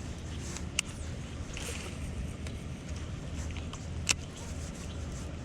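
Boat motor running at a steady low rumble, with two sharp clicks, about a second in and again about four seconds in.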